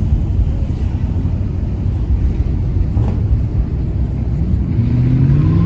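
Car engine running loudly with a deep rumble, its pitch rising over the last second or so as it is revved up.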